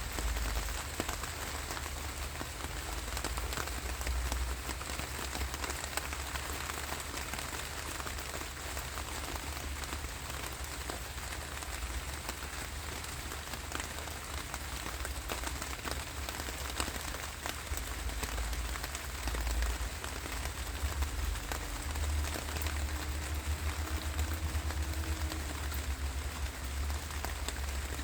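Steady rainfall, a dense even patter of many drops, with a low rumble underneath.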